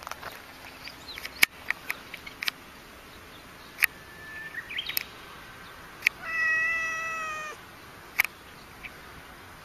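A cat gives one long, slightly falling meow about six seconds in. A few sharp clicks come before and after it.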